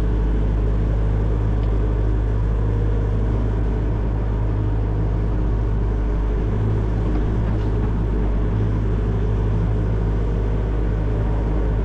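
Excavator's diesel engine running steadily, a constant low drone with no change in pitch.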